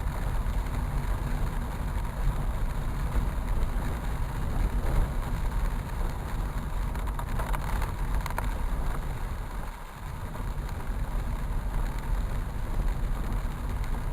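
Heavy rain and road traffic: a steady rushing noise over a low rumble, dipping briefly about ten seconds in.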